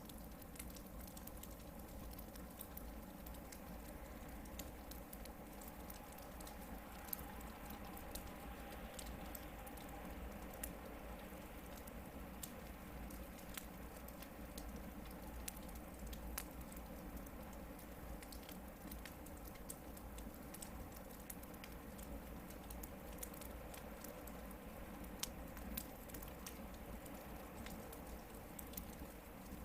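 Hardwood campfire burning: a steady soft hiss with frequent small, irregular crackles and pops, a couple of them louder about seven and twenty-five seconds in.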